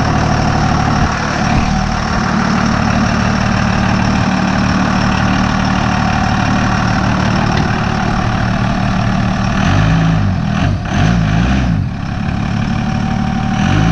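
Diesel pickup truck engine running steadily. Its pitch rises and falls a few times near the end as the engine speed changes.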